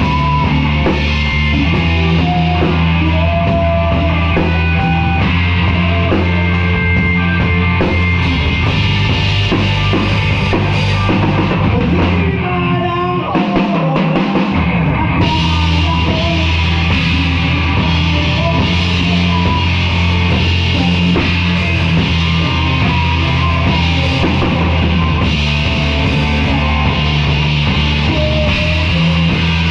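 A live rock band playing, with drum kit, guitar and a heavy bass line. The low end drops out for about two seconds near the middle, then the full band comes back in.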